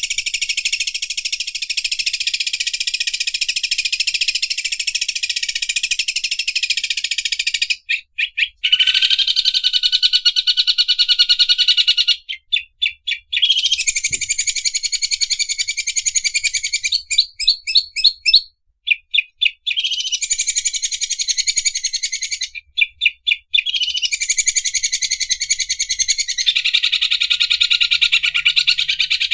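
Greater green leafbird (cucak ijo) singing a long, very fast, high-pitched buzzing trill of the 'mesin obras' type, named for its likeness to an overlock sewing machine. The trill breaks off several times into short stuttering runs of separate chips.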